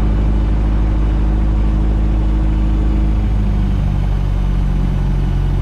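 Van's RV-8's piston engine and propeller running steadily at low power before the takeoff roll, a steady drone with a slight shift in pitch about halfway through.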